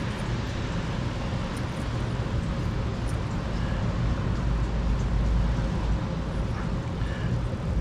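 Steady background rumble and hiss with a low hum, and a few faint small clicks.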